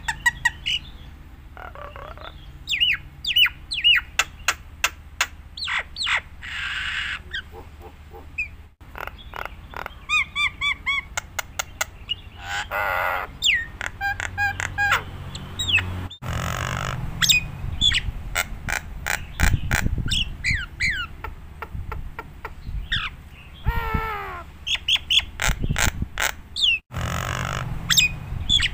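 Jalak Nias, a caged starling, singing a long, varied song of whistles, rising and falling glides and rapid clicking, chattering notes. The song breaks off abruptly three times where separate recordings are spliced together.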